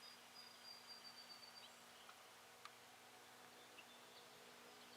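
Near silence: faint outdoor background, with a thin high whine for about a second and a half near the start and a few faint ticks.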